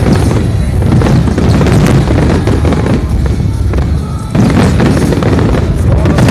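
Fireworks display: aerial shells bursting in loud, overlapping booms that fill the air with a continuous rumble, briefly easing about four seconds in before a fresh burst. Music plays along.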